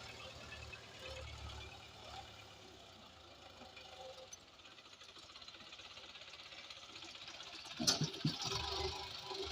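Tractor diesel engine running, with a sudden loud knock about eight seconds in, after which it runs louder.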